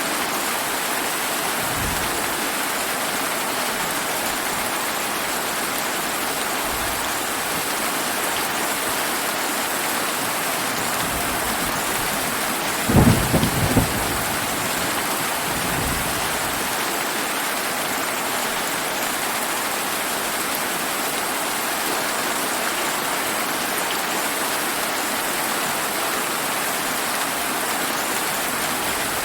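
Steady summer rain falling, with a brief clap of thunder that rumbles in a few pulses about halfway through, and fainter low rumbles before and after it.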